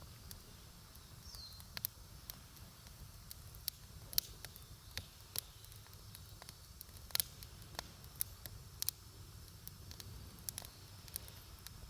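Wood campfire crackling: scattered, irregular sharp pops and snaps from the burning wood, a few louder ones around four and seven seconds in, over a faint low rumble.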